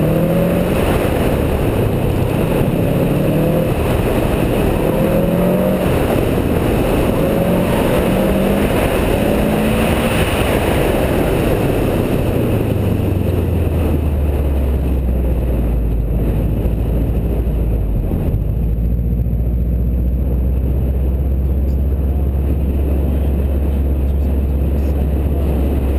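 Car engine revving through an autocross run, its pitch rising and falling as it accelerates and brakes between the cones, over a loud rush of road noise. About halfway through it settles into a steady low drone and the rushing fades as the car slows after the run.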